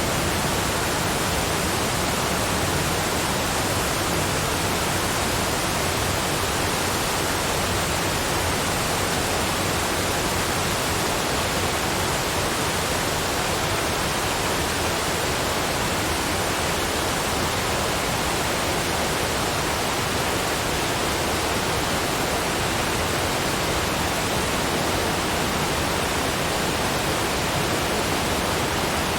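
Waterfall rushing: a steady, even hiss of falling water that never changes in level.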